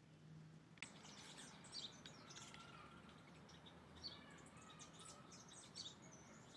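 Birds chirping faintly, many short high calls in quick succession, starting abruptly about a second in.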